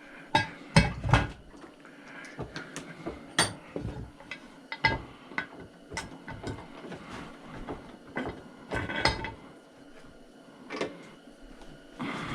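Hand tools clinking and knocking against the metal parts of a chop saw being taken apart: irregular sharp clinks and taps, the loudest about a second in.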